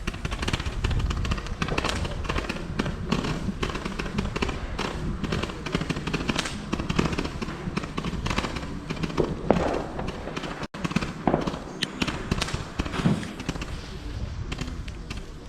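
New Year's Eve fireworks: a dense, continuous barrage of overlapping firecracker bangs and crackling. The sound cuts out briefly about ten and a half seconds in.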